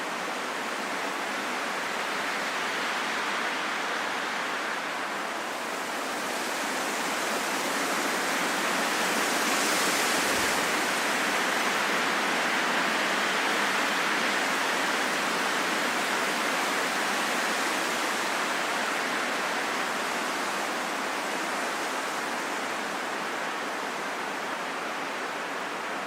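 Steady wind, swelling into a stronger gust about ten seconds in and slowly easing off again.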